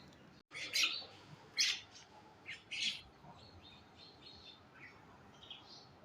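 Birds chirping: a brief gap in the sound about half a second in, then several loud, high chirps over the next two and a half seconds, followed by fainter chirps.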